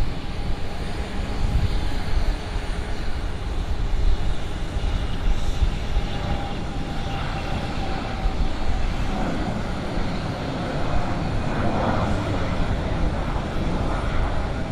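Gulfstream G650 business jet taking off, its twin Rolls-Royce BR725 turbofans giving a steady rumble with a thin whine that fades out about eight seconds in.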